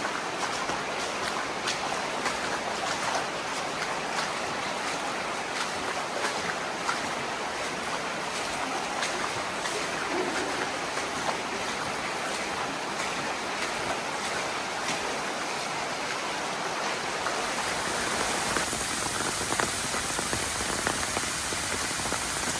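Steady rush of a rain-swollen creek running fast, mixed with heavy rain and scattered drop ticks. The rush grows louder and hissier about three-quarters of the way through.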